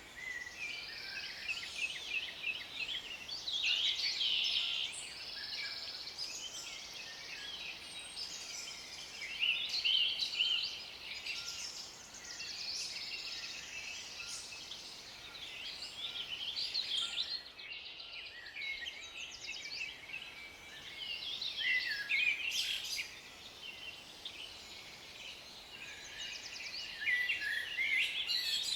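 Several songbirds singing at once: overlapping chirps, trills and warbled phrases forming a continuous chorus, with brief louder phrases every few seconds.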